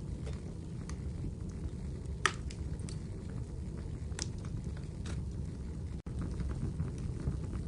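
Wood fire in a fireplace crackling: a steady low rumble of the burning fire with scattered sharp pops, the loudest about two seconds in. The sound cuts out for an instant about six seconds in.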